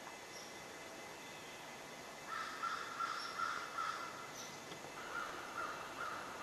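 A bird calling in a rapid series of harsh, caw-like calls, about three a second, starting about two seconds in, pausing briefly, then calling again near the end.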